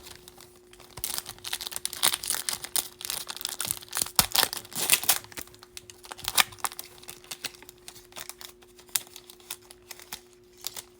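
Foil wrapper of a Bowman baseball card pack being torn open and crinkled: a rapid, irregular crackle, heaviest in the first half, thinning to sparser crackles and clicks near the end.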